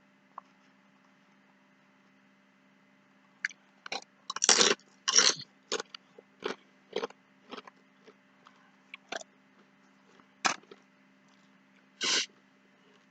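Close-up mouth sounds of a man eating nachos: a string of short, sharp coughs or chews starting about three and a half seconds in. The two loudest come first, then weaker ones follow about twice a second, with a few more further apart near the end.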